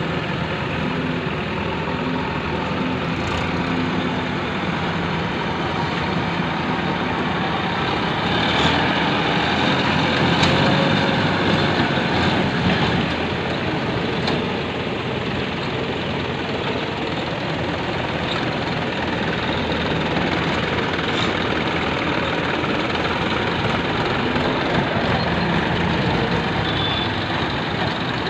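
Heavy diesel engine running steadily, a little louder for a few seconds about eight seconds in.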